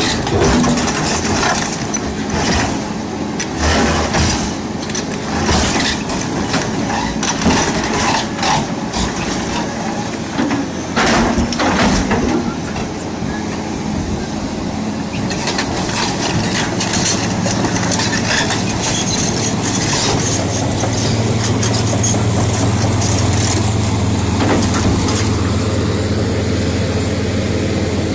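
Heavy machinery running, with a steady engine drone and repeated clanks and knocks, most of them in the first half; the engine hum then settles and runs steadily.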